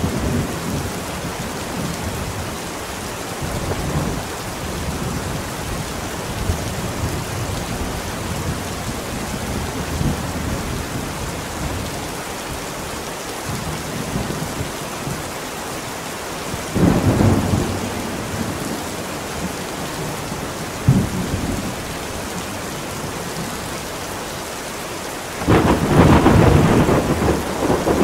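Steady heavy rain with thunder rumbling several times; a brief crack about 21 seconds in, and a louder, longer roll of thunder starting near the end.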